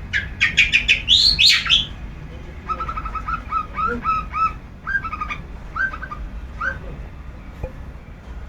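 Long-tailed shrike (cendet) calling: a burst of loud, harsh rising calls in the first two seconds, then a quicker run of chattering notes that fades out about seven seconds in.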